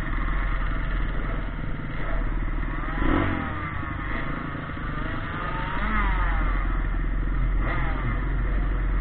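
Pitbike engines running and revving up and down, more than one bike at once, with pitches rising and falling across each other.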